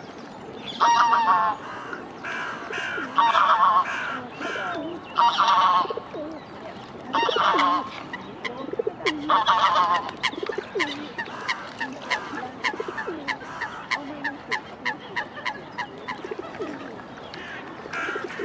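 Waterfowl calling: about five loud honking calls a couple of seconds apart, followed by a run of short, quick calls.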